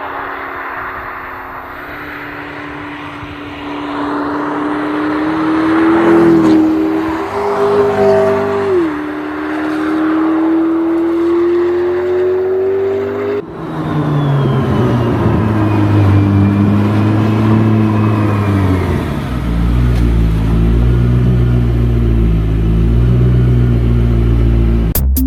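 2019 Audi RS 4 Avant's twin-turbo V6 pulling under acceleration, its note climbing steadily with a quick drop in pitch at an upshift about nine seconds in. About halfway through the sound cuts abruptly to a lower engine note that steps up and down in pitch.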